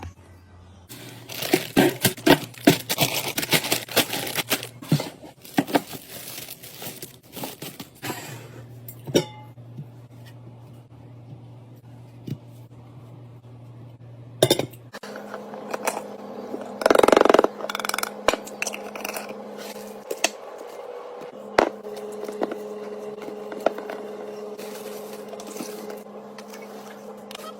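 Fridge restocking: plastic packaging crinkling and tearing, with containers, glass and dishes knocking and clinking as they are set down in quick succession, over a steady low hum.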